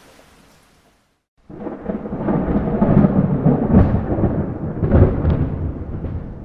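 Light rain hiss fades to silence, then about a second and a half in a thunderclap breaks in suddenly and rolls on loudly with several peaks, easing off near the end.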